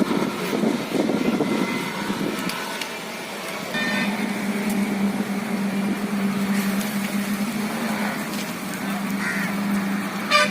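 A steady low motor hum, like a vehicle engine running, that settles in about four seconds in. There is a short sharp sound just before the end.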